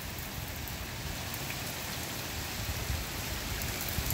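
Heavy rain pouring down steadily during a thunderstorm.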